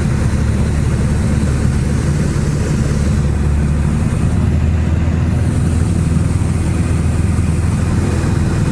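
Small plane's engine and propeller droning steadily, heard from inside the cockpit.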